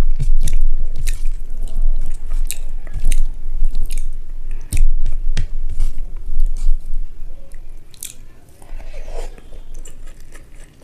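Close-miked chewing and mouth sounds of someone eating rice and egg curry, with many sharp mouth clicks; it grows quieter over the last few seconds.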